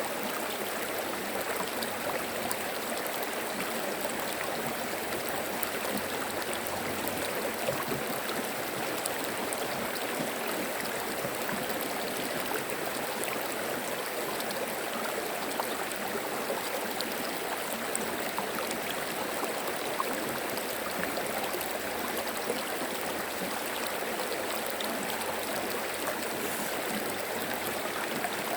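Shallow stream babbling and trickling over stones, a steady, even flow of water with fine splashy detail.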